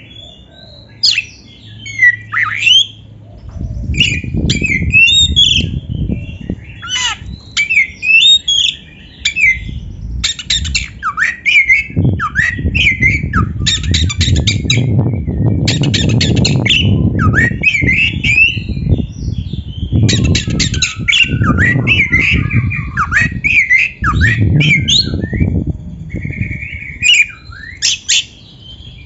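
Oriental magpie-robin (kacer) singing a loud, varied song of whistled glides, harsh squawking notes and rapid chattering trills, with hardly a pause. A low rumbling noise rises and falls beneath the song through most of the stretch.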